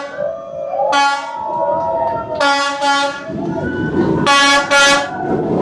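Train horn sounding repeated short double blasts as a train passes very close. From about three seconds in, the rumble of the passing train builds up beneath the horn.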